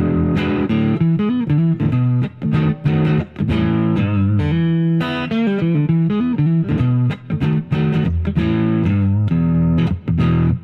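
Harley Benton JA-60 Jazzmaster-style electric guitar on its neck single-coil pickup, played through a Caitlinbread SFT clone drive pedal for a mildly distorted, amp-like tone. It plays a run of strummed chords and picked single-note lines, then stops at the end.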